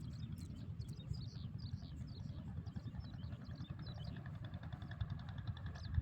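Birds chirping over a steady low rumble; about four and a half seconds in, a rapid, even buzz joins them.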